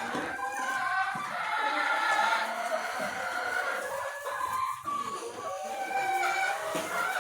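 A flock of chickens clucking and calling, many voices overlapping without a break.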